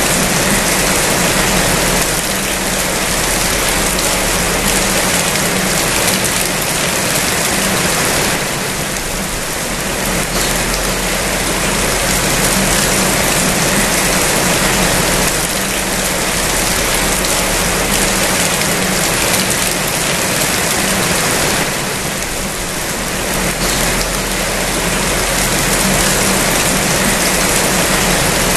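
Steady heavy rain, a dense even hiss that eases slightly twice.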